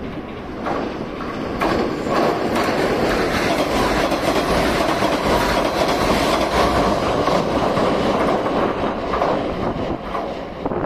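Diesel multiple-unit train crossing a steel plate-girder bridge: a steady loud rumble from the wheels and the steel deck, with repeated sharp clicks of the wheels over the rail joints. It swells about a second and a half in and eases off near the end as the train clears the bridge.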